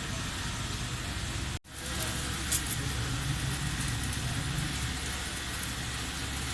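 Steady machine rumble with background noise, cut off abruptly for a moment about one and a half seconds in, then a single sharp click about a second later.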